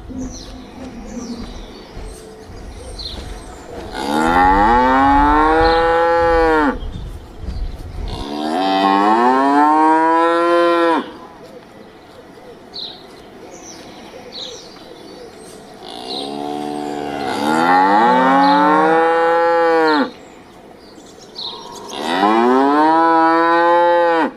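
Cattle mooing: four long moos of about two to four seconds each, every one rising and then falling in pitch.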